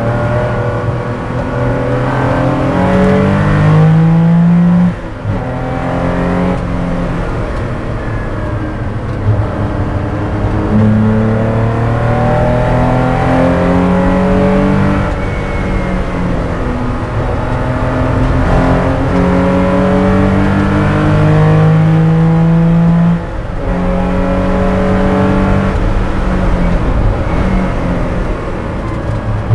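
1977 Porsche 911 race car's air-cooled flat-six heard from inside the cockpit, accelerating hard at racing speed. The engine note climbs in pitch under load and drops off sharply twice, about 5 and 23 seconds in.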